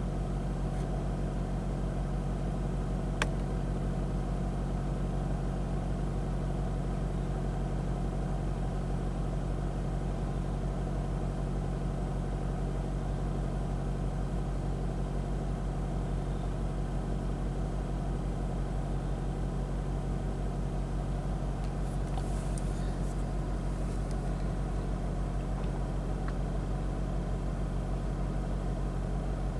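Chevy Volt's four-cylinder petrol range-extender engine running steadily at a standstill, heard from inside the cabin, in engine maintenance mode: a forced run that lubricates the engine and keeps the catalytic converter in condition. A single click about three seconds in.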